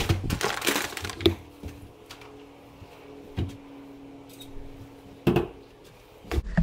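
Bags rustling and crinkling for about a second as a takeout order is pulled out of a delivery bag, then a few separate sharp clicks and knocks, the one near the end the loudest, over a faint steady hum.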